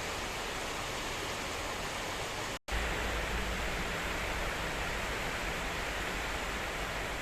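Heavy storm rain and strong wind, a steady dense hiss. It cuts out for an instant about two and a half seconds in, then resumes with a deeper low rumble.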